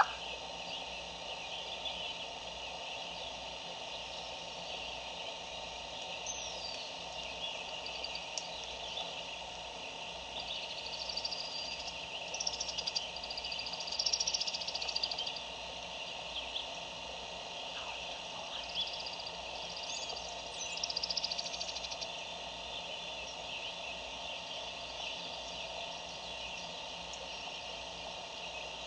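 Songbirds chirping and trilling in short bouts over a steady high-pitched background chorus. The birds are loudest about halfway through and again about two-thirds in.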